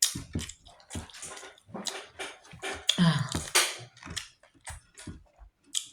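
Close-up wet chewing and mouth sounds of someone eating beans and gari, with a hummed 'mm' of enjoyment about three seconds in.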